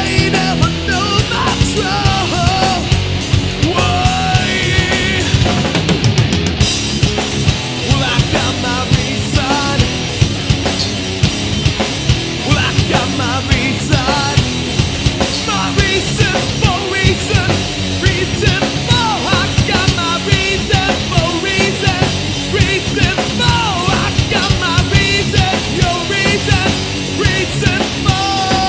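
Rock band playing an instrumental passage, with a driving drum beat under a bending melodic lead.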